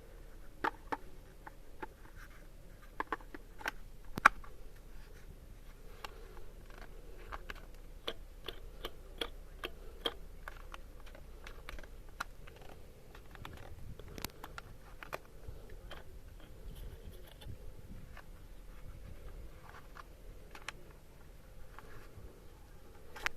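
Irregular small clicks, taps and scrapes of hard objects being handled, a few sharper knocks among them; no motor running.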